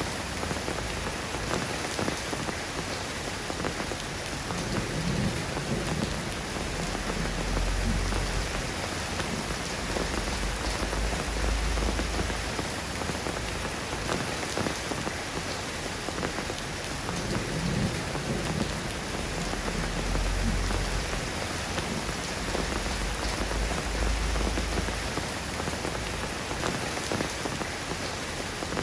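Steady rain falling, an even hiss of drops, with low rumbles of distant thunder swelling and fading several times.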